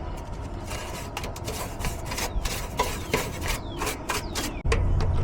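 Irregular clicking and scraping, then about four and a half seconds in a steady low hum sets in as the AC condenser unit starts running.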